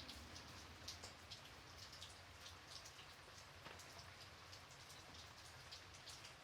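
Gentle rain falling steadily, a soft hiss with many separate drops pattering on a surface.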